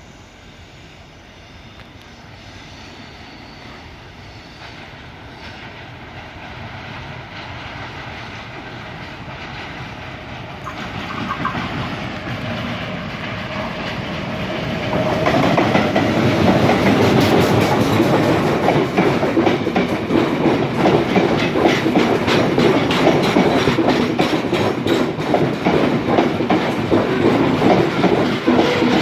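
Express train approaching and pulling in, growing steadily louder. From about halfway through it runs close by, with a rapid clickety-clack of wheels over the rail joints.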